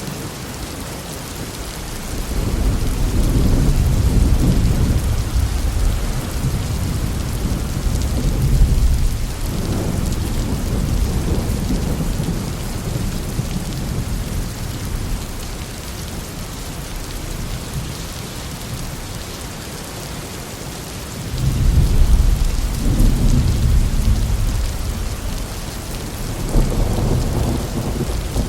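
Heavy thunderstorm: steady rain hissing on the ground and foliage, with long low rolls of thunder swelling about 2 seconds in, again about 21 seconds in, and once more near the end.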